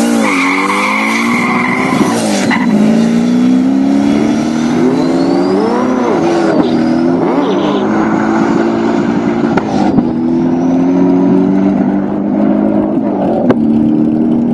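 C6 Corvette's V8 at full throttle from a standing start, accelerating through the gears: the engine pitch climbs and then drops at upshifts about two, six and ten seconds in. Tyre squeal at the launch, and a faint high whine glides above the engine note.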